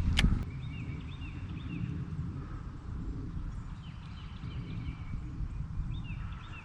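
Wind rumbling on the microphone, with one brief sharp swish right at the start and a few high chirps in short runs about a second in, around four seconds and near the end.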